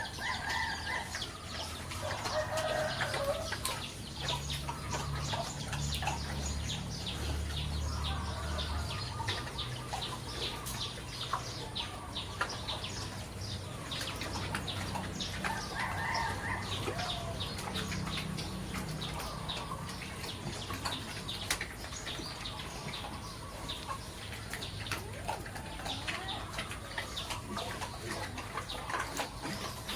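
Chickens clucking and chirping, with a rooster crowing now and then. A low hum comes in from about four to nine seconds in.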